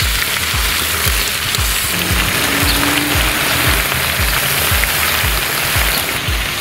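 Goat meat and freshly added sliced onions sizzling in hot fat in a large kazan, a dense, even hiss. Background music with a steady beat of about two thumps a second runs under it.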